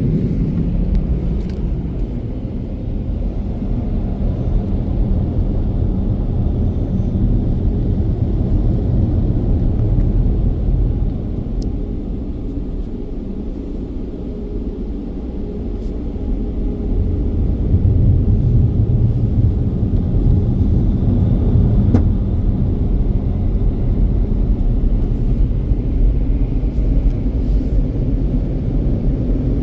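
Mark VII car wash dryer blowers with the newer, quieter motors running, heard from inside the car: a steady low rumble of rushing air. It eases off somewhat a little before halfway through and swells back up a few seconds later, with a few faint clicks.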